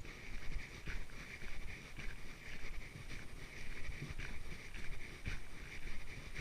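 Footsteps on a trail with a dog panting alongside, a steady hiss and soft thuds recurring about once or twice a second.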